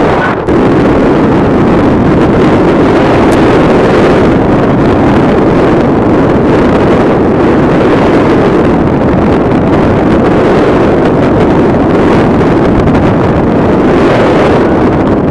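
Strong wind rushing over the microphone of a paraglider pilot in flight: a loud, steady roar of wind noise.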